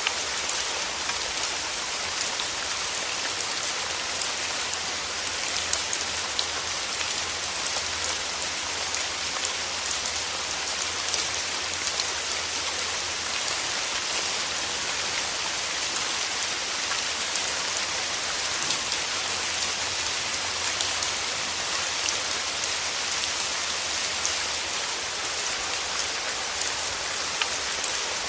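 Steady rain falling: a dense, even hiss of drops with many separate drop ticks scattered through it.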